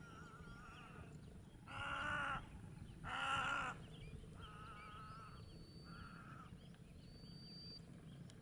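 A series of five wavering, drawn-out animal calls, the two loudest about two and three seconds in, with the others fainter. Faint, thin high whistles come later.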